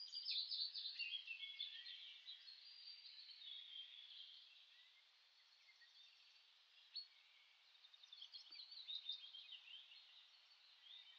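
Faint birdsong: many quick high chirps and trills, busiest in the first few seconds and again about eight seconds in.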